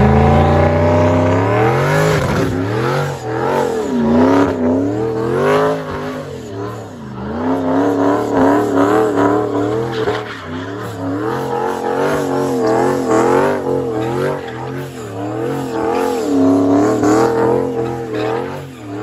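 A Ford Mustang's engine revving hard, its pitch climbing at the start and then swinging up and down again and again as the car does donuts, spinning its rear tyres.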